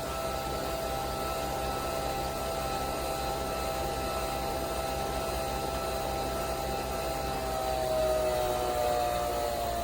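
Nespresso Vertuo Next coffee machine running a brew cycle: a steady motor whine with a few held tones over a noisy hum, as the capsule spins. About three quarters of the way in, the tones slide down in pitch.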